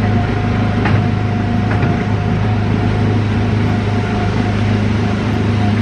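Small gasoline engine of a Disneyland Autopia ride car running steadily as the car drives along its track, a steady hum with a couple of light clicks about a second in.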